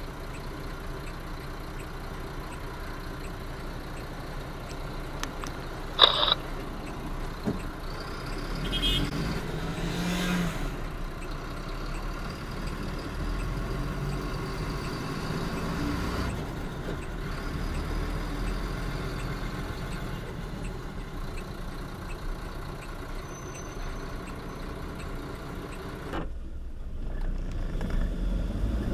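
Truck engine and road noise heard from inside the cab, getting louder about eight seconds in, with a single sharp click about six seconds in.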